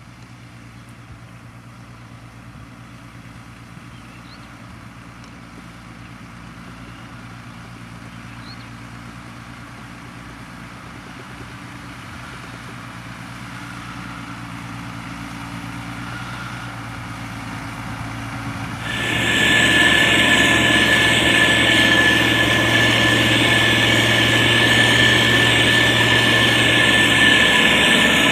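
Motor grader's diesel engine running steadily and slowly growing louder; about two-thirds of the way in it abruptly becomes much louder, with a high steady whine over the engine.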